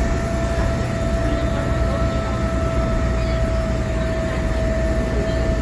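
City bus running, heard from inside: a steady rumble of engine and road noise with a steady whine over it.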